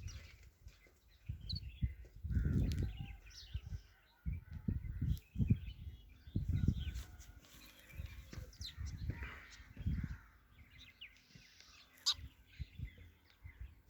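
Birds chirping and calling in short scattered notes, over repeated bursts of low rumbling noise that are the loudest thing throughout.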